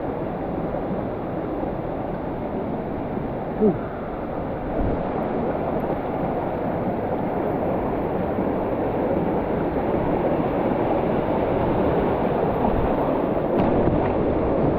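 Steady rush of a waterfall and fast stream water in a mountain gorge, loud and unbroken. A brief short pitched sound cuts in once about three and a half seconds in.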